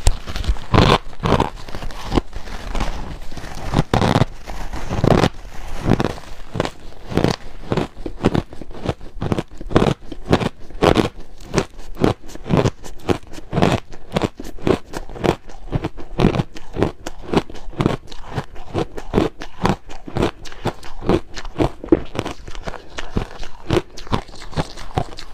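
A person chewing ice close to the microphone: a fast, irregular run of loud crunches, roughly three or four a second, as the ice is bitten and ground between the teeth.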